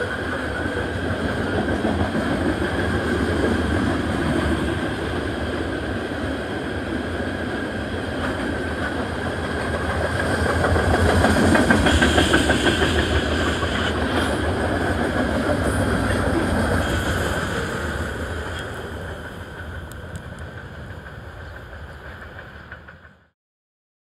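Freight train of tank cars rolling past: a steady rumble and clatter of steel wheels on the rails. It is loudest about halfway, then fades and cuts off abruptly just before the end.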